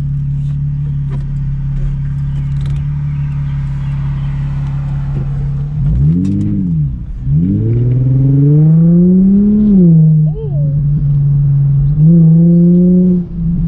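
Infiniti G35's V6 engine heard from inside the cabin while driving. It drones steadily at first, then rises and falls in pitch briefly about six seconds in. It then climbs in pitch for a couple of seconds under acceleration before dropping back, and steps up again near the end.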